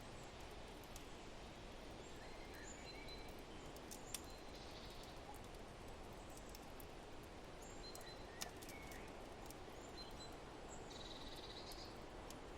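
Faint, steady rush of wind with small birds chirping briefly every few seconds. Two sharp pops from a crackling wood fire, about four seconds in and again about eight seconds in.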